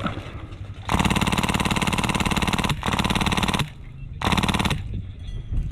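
Polar Star Fusion-engined Mk46 airsoft light machine gun firing on full auto, three bursts of rapid shots, the first the longest.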